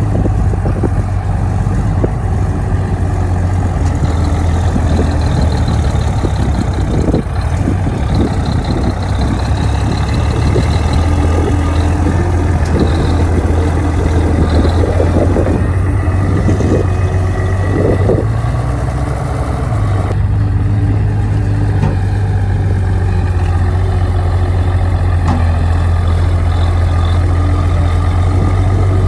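Bulldozer's heavy diesel engine running steadily with a deep, low hum. Irregular knocks and clanks come through the middle stretch, and the engine note shifts about two-thirds of the way in.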